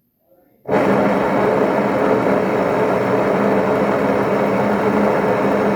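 Electrolux LT10 washing machine's motor switched on in spin mode, starting suddenly under a second in and driving the spin gearbox with a loud, steady mechanical racket. The noise comes from a blown bearing in the spin mechanism.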